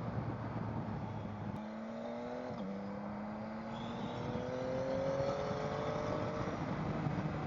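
Motorcycle engine pulling away and accelerating, its pitch rising, dropping briefly with a gear change a little over two and a half seconds in, then rising again.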